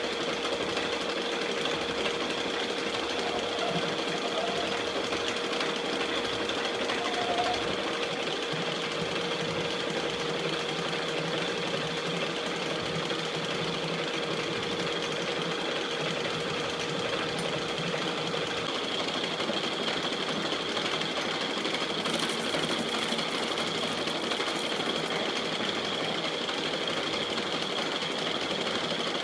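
E1N metal lathe running steadily, a constant hum with a steady high whine over it. A brief high hiss joins in about 22 seconds in.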